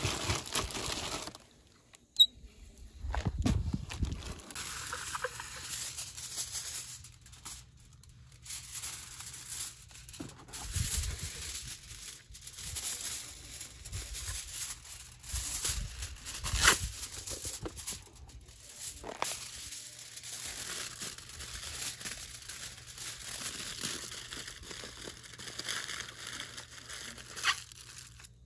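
Crinkly material being crumpled and handled, in irregular rustles with a few sharp clicks.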